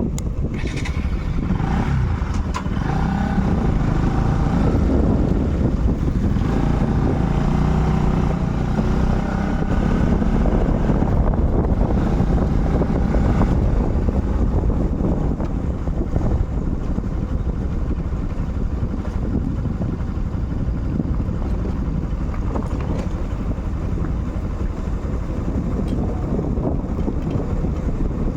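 Motorcycle being ridden: engine running under steady wind rush on the microphone, with a clearer engine tone that rises and falls from about two seconds in to about halfway through.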